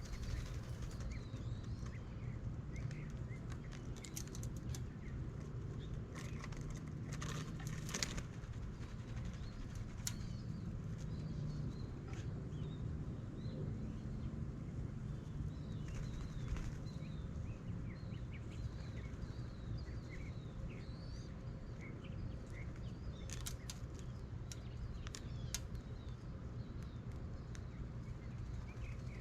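Doves' wings flapping in short bursts as they fly to and from a bird feeder, with many small bird chirps scattered throughout over a low steady rumble.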